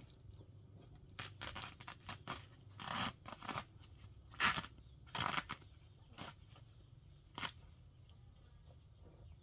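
A series of short, irregular scraping and crunching sounds, the loudest about four and a half seconds in, like something being handled, cut or torn by hand.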